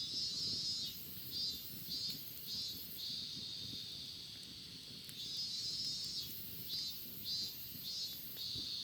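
Cicadas singing: a high, shrill buzz that runs in long stretches broken by series of short pulses about twice a second. A few faint snaps of a wood fire.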